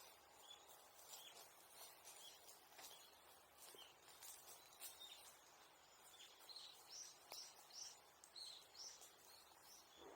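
Faint outdoor ambience with a small bird chirping: short high notes, with a quick run of them in the second half. A few faint, scattered ticks are also heard.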